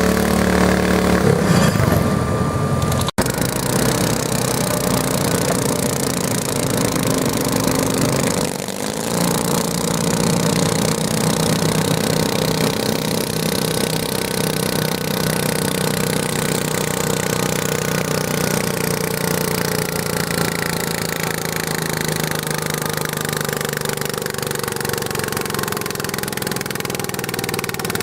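Garden tractor engine running hard at high revs, its note changing about a second and a half in and again around eight seconds in.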